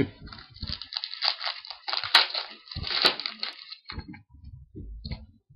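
Baseball card pack wrapper being torn open and crumpled, a crackly crinkling for about four seconds. A few soft, low thumps follow near the end.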